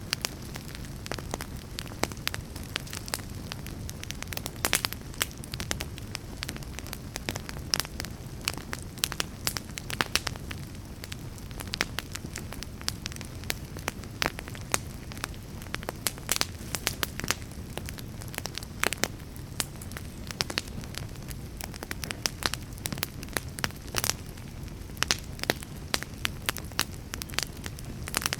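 Wood fire burning, with a steady low rumble and many sharp, irregular crackles and pops.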